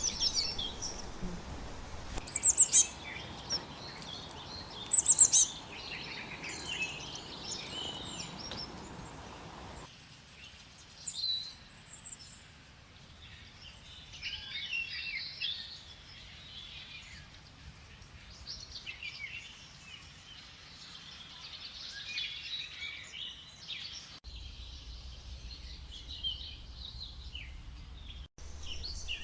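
Several birds calling and singing at once in a forest chorus, with the loudest calls about two and a half and five seconds in. The background hiss drops suddenly about ten seconds in and changes again near twenty-four seconds, where separate recordings are joined.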